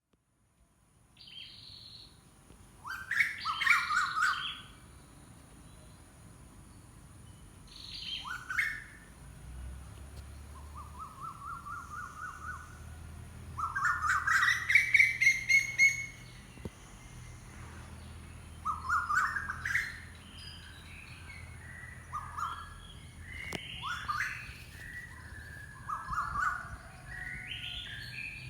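Wild birds calling and singing: short separate calls and phrases every few seconds, some sweeping in pitch and some fast trills, the loudest around 3 to 4 seconds in and from about 14 to 16 seconds.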